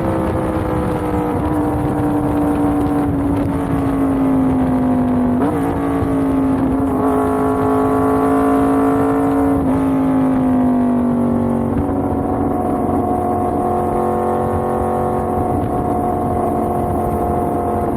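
Yamaha MT-10's crossplane inline-four engine running under way, its note easing gradually lower. There are a few brief shifts in pitch, about a third of the way in and again past the middle.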